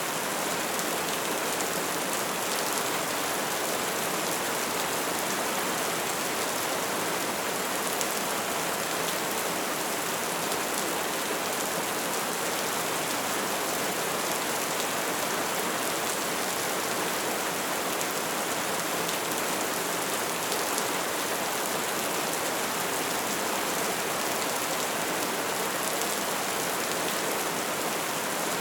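Wood fire burning steadily, a continuous hiss of flames with scattered small crackles and pops.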